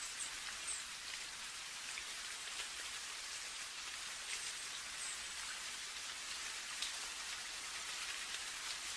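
Steady rain: an even hiss with scattered individual drop ticks.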